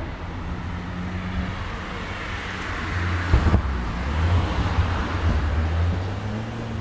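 Road traffic: a vehicle engine runs steadily with a low hum, while traffic noise swells and fades as a vehicle passes. A couple of sharp thumps come about halfway through.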